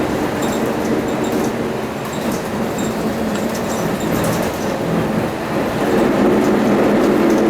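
Isuzu U-LV318L diesel city bus under way, heard from inside the cabin: steady engine and road noise that eases slightly about two seconds in and builds again near the end.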